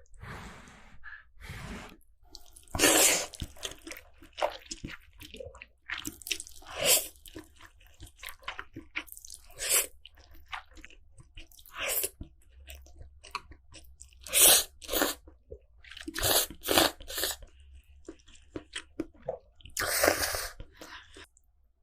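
Close-up eating sounds of instant noodles: irregular slurps and wet chewing, with a few louder, longer slurps.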